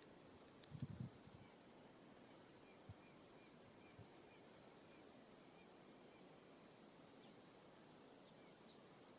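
Faint, short high chirps from a small songbird, repeating about once or twice a second and stopping about five seconds in, over quiet outdoor hiss. A few soft low thumps come about a second in.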